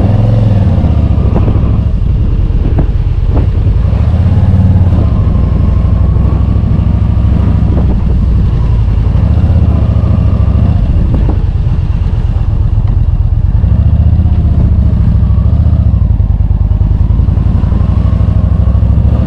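Yamaha motorcycle engine running while riding, its pitch rising and falling with the throttle.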